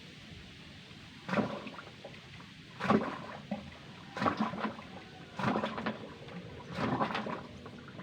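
Muddy water gushing and splashing out of a hand-drilled bore well in five regular surges, about one every second and a half.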